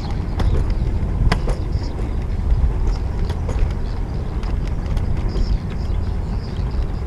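Riding noise on a GoPro's microphone during a bicycle ride: a steady low wind-and-road rumble, with scattered sharp clicks and ticks.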